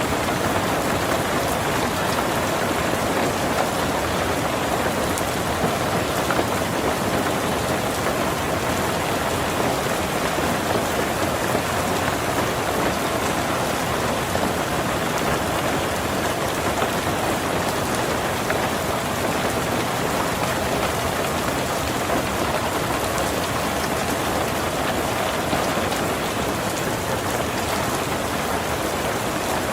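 Heavy rain drumming steadily on a tin roof, a dense even patter of drops with faint individual ticks.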